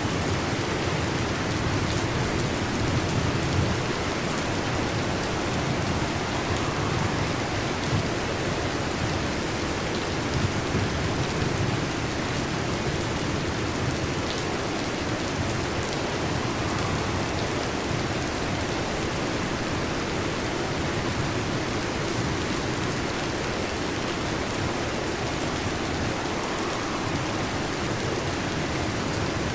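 Heavy rain falling steadily on a metal roof, a continuous even hiss.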